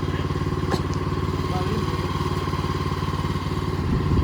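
Engine of a Bushlander HM122 portable bandsaw mill running steadily with an even pulse.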